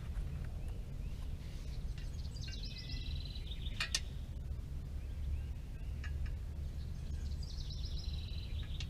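A songbird sings two quick descending trills, a few seconds apart, over a steady low rumble. There is a sharp click between the two trills.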